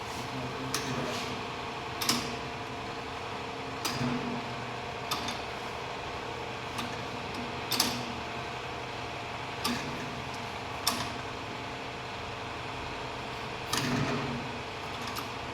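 Metal tools and fittings clinking sharply every second or two as a tractor's diesel injector is fitted to its fuel line, over a steady machine hum.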